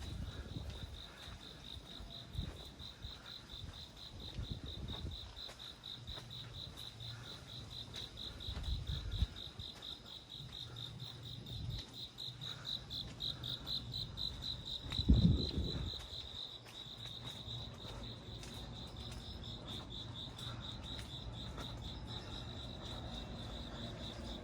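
A cricket chirping in a fast, steady high-pitched pulse. Low dull thumps come and go beneath it, the loudest about 15 seconds in.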